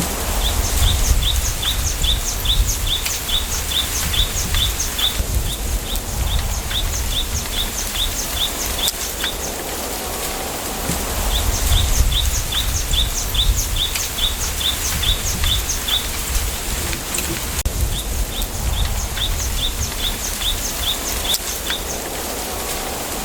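A songbird repeats a short, high, falling note about three times a second in runs of several seconds, pausing between runs. Underneath is a steady hiss of bamboo leaves rustling in the wind and a low, surging wind rumble.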